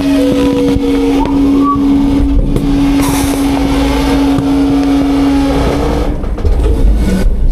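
Autocar-Heil Freedom front-load garbage truck running its hydraulics: a steady whine over the engine, with scattered knocks and clunks. About six seconds in the whine stops and a heavier low rumble with clunks takes over.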